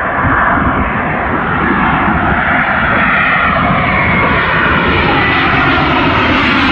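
Jet airliner flying low overhead, a loud steady rush of engine noise with a sweeping tone that slowly falls in pitch.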